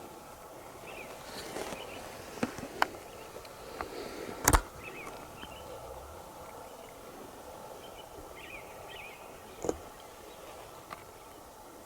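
Quiet outdoor ambience with a few faint, short bird chirps and several sharp knocks, the loudest about four and a half seconds in.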